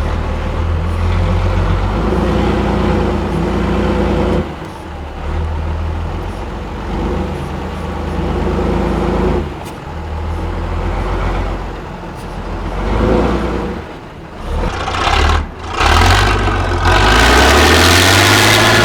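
Heavy off-road trial truck's diesel engine working hard under load, its revs rising and falling with several brief throttle-offs. It revs up loud near the end.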